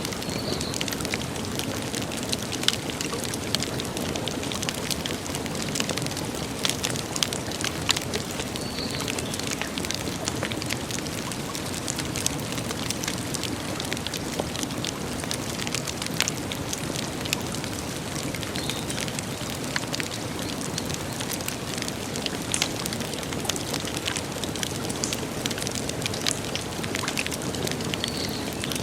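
Wood campfire crackling, with frequent sharp pops and snaps over a steady hiss.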